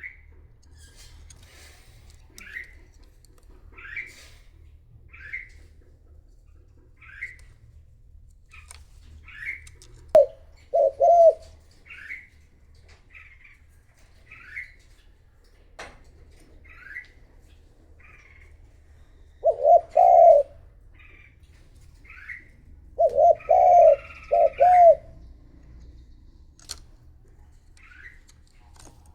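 Decoy spotted dove cooing in short phrases of two to four notes, three times: about ten seconds in, about twenty seconds in, and again a few seconds later. Throughout, short higher chirps repeat about every second and a half.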